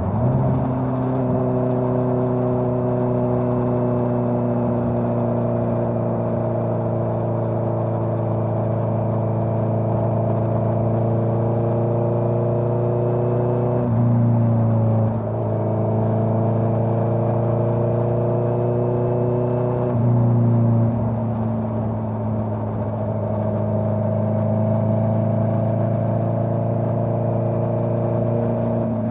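Honda CBR650R inline-four motorcycle engine running through a Dominator GP full-system exhaust, holding a steady cruise with the pitch slowly sagging. The pitch shifts and the sound swells briefly about halfway through, and again about two-thirds through.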